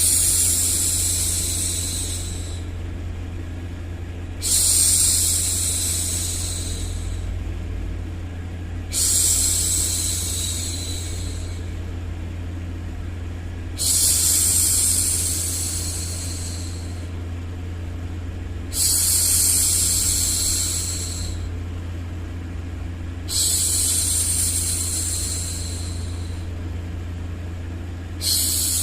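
A woman's voice making long 'shhh' hushing sounds, one about every four and a half seconds, each starting sharply and fading away over two to three seconds. Under them runs a steady low rumbling noise.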